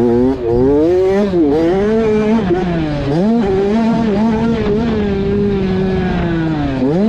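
Motocross dirt bike engine being ridden, its revs rising and falling with the throttle, held fairly steady for a couple of seconds in the middle, then dropping off and picking up again near the end.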